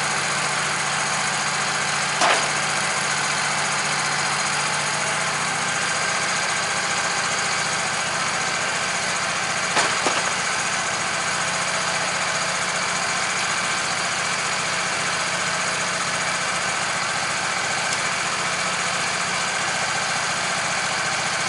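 Sawmill engine idling steadily, with two brief knocks about two seconds and ten seconds in.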